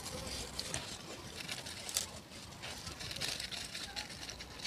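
Close-miked eating sounds: chewing and mouth smacks with small irregular crackles, as food is chewed and another bite is put in.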